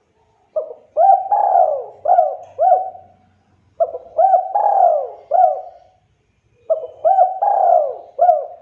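Spotted dove (tekukur) singing its cooing song: three phrases of several quick, hooked coos each, one phrase about every three seconds.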